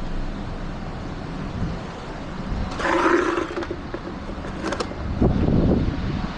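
Low rumble of a car engine running as a car moves, with a brief louder, pitched sound about three seconds in and a short noisy burst a little after five seconds.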